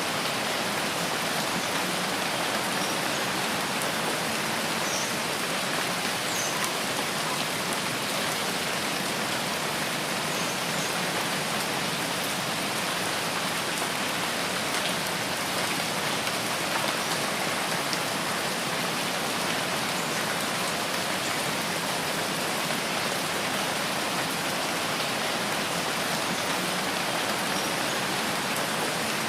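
Steady rain falling in a rainforest: an even, unbroken hiss of rain with no pauses.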